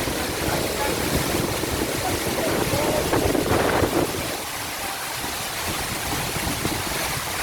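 Waterfall: water rushing steadily, with low wind buffeting on the microphone that eases a little past halfway.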